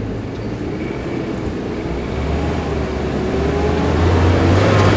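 Four-wheel-drive's engine pulling under load on a steep off-road climb, the revs and loudness rising over the last few seconds.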